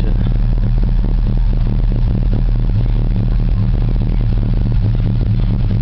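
1986 Oldsmobile Cutlass Supreme's 350 Rocket V8 idling steadily.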